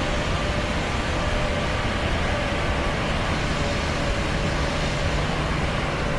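Steady noise of an airplane in flight, with a faint steady hum over it.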